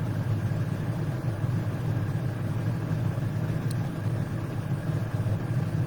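A steady low mechanical hum with no change in pitch or level, and one faint tick about three and a half seconds in.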